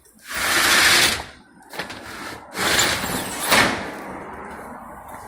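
A fire engine's roll-up equipment compartment door rattling as it is slid, in two loud bursts of about a second each, the second starting about two and a half seconds in.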